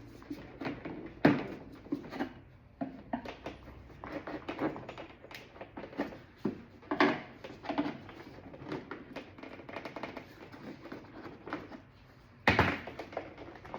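Plastic door panel parts being wedged and pried apart, making irregular clicks, taps and knocks. A louder knock comes near the end.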